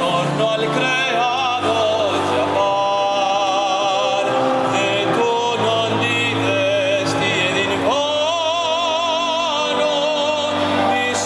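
Operatic-style singing with long held notes and wide vibrato, over accompanying music.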